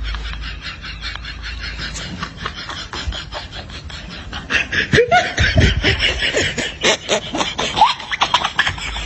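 Laughter: a fast run of breathy ha-ha pulses that gets louder about five seconds in, with squeaky voice rising and falling in pitch.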